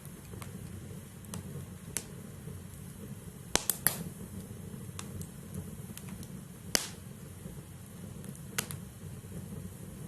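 Wood logs burning in a fireplace: a steady low rumble of the fire with sharp, irregular pops and crackles from the firewood. There is a quick cluster of three pops a little after three and a half seconds, and the loudest single pop comes near seven seconds.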